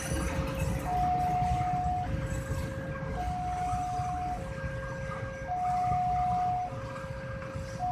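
Railway level-crossing warning alarm sounding, alternating a higher and a lower steady tone about once a second each, warning that a train is approaching. Underneath it is a low rumble of vehicle engines waiting at the crossing.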